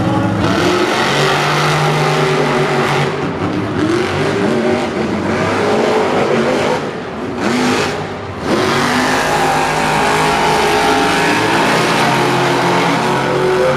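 Monster truck engines revving hard during a race, their pitch climbing and falling repeatedly, with a brief lull about seven seconds in before they pick up again.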